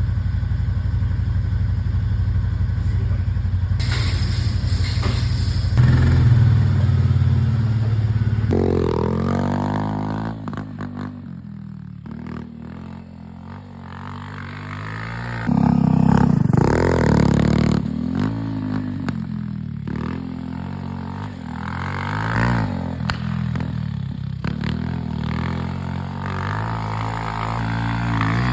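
Small minibike engine running and being ridden: steady for the first several seconds, then revving up and down again and again, dropping off for a few seconds in the middle before coming back louder.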